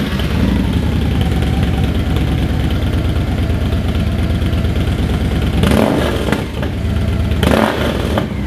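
Victory Cross Country's V-twin engine through GONZO aftermarket mufflers, idling with a steady low pulse just after starting. It is revved briefly twice, about six and seven and a half seconds in, each time rising and dropping straight back to idle.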